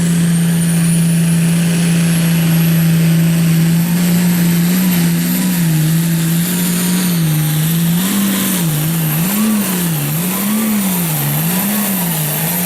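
Limited pro stock pulling tractor's engine running flat out under load down the pull track, with a high steady whistle over it. About halfway through, the engine speed starts to rise and fall roughly once a second.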